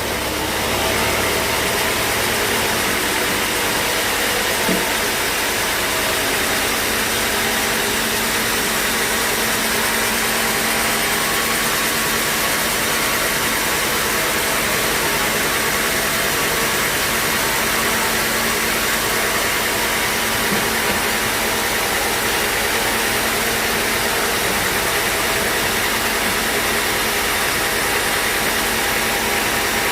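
Sawmill machinery running steadily: a loud, even mechanical noise with a constant low hum that does not change.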